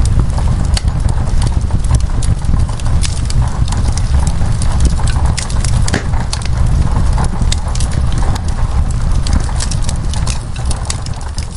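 Wood fire crackling, with frequent sharp pops and snaps over a steady low rumble, fading out near the end.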